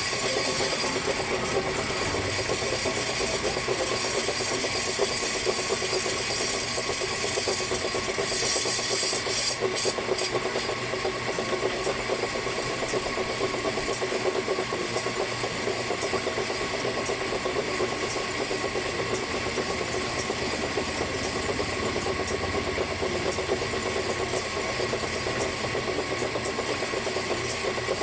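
A machine running steadily, with a dense rattling texture and a few steady tones, and a brief swell of high hiss about eight seconds in.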